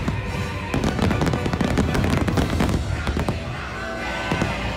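Fireworks bursting and crackling in quick succession over music, heard from inside the castle dining room through its windows. The bangs thin out about three seconds in.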